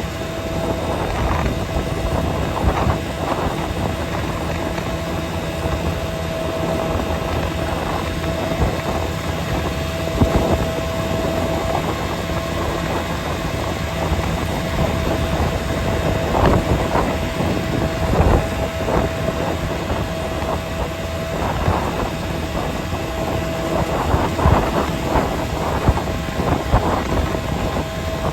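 A vehicle driving along a road: steady engine and road noise with wind on the microphone, a constant mid-pitched tone, and a few brief knocks.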